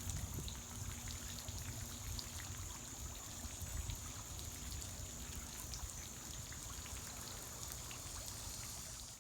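Steady outdoor background noise: a continuous high-pitched whine over a low rumble and hiss, with faint scattered ticks.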